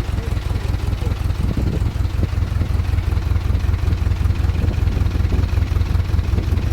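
GAZ-MM four-cylinder side-valve engine idling steadily with a fast, even firing rumble, a valve knocking that the mechanic points out.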